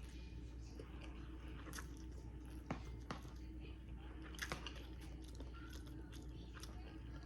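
A person chewing and biting food close to the microphone, with a few soft, scattered crunches.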